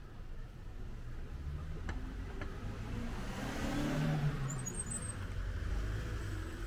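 A car passing close by: engine and tyre noise swell to a peak about four seconds in, then fade, over a steady low rumble.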